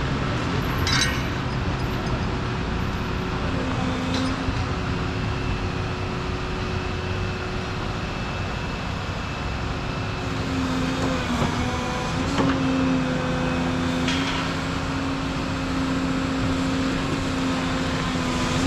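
Volvo 235EL excavator's diesel engine and hydraulics running steadily, with a held hydraulic whine that grows stronger about halfway through, and a few light knocks.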